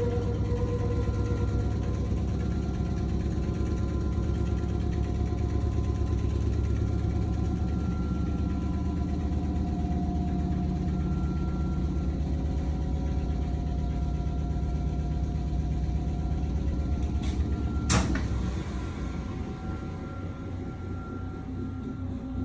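Nankai 2200 series train running, heard inside the car: a steady low rumble with faint wavering tones above it. A single sharp clack comes about 18 seconds in, after which the running noise is quieter.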